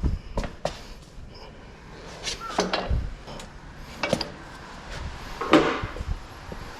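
Tools and metal parts knocking and clicking as they are handled during suspension work, with a few sharper knocks, the loudest about five and a half seconds in.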